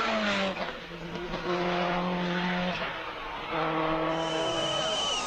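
Rally car engine running hard at high revs, its note dropping just after the start, then held steady, breaking off briefly near the middle and picking up again.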